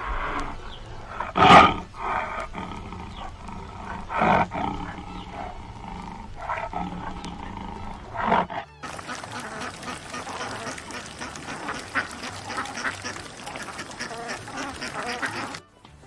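Ducks quacking: three loud separate calls in the first half, then, after an abrupt change, a dense chorus of many short overlapping calls.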